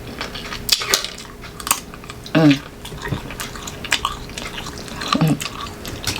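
Close-up crunching and chewing of raw green mango: repeated sharp crackly crunches through the bites, with two brief vocal sounds from the eater about a third of the way in and near the end.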